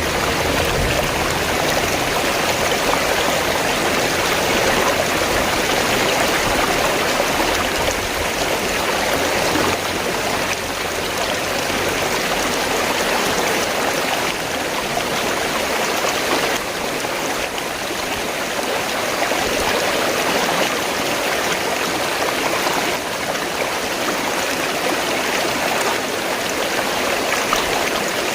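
River water flowing: a steady, even rush of running water. A low rumble sits beneath it for about the first ten seconds, then fades out.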